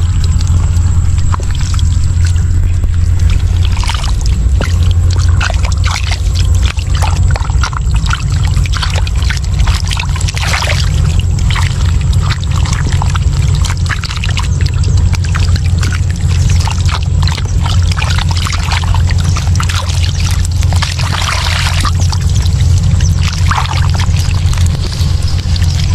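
Shallow water in a flooded rice field splashing and sloshing in many short, irregular splashes over a steady low rumble.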